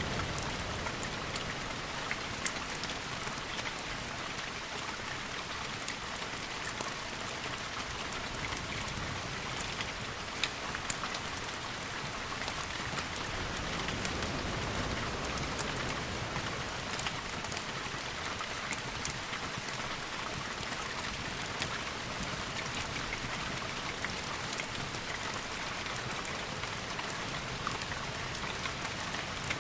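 Steady rain: a dense, even hiss dotted with many small sharp ticks of drops.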